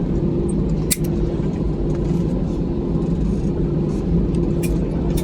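Airliner cabin noise on the ground after landing: steady engine hum over a low rumble from the wheels on the runway, with a few short rattling clicks about a second in and near the end.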